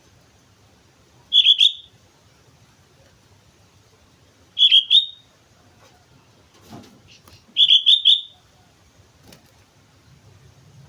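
Sooty-headed bulbul (kutilang) calling: three short phrases of two to four quick notes, about three seconds apart, with a few faint knocks in between.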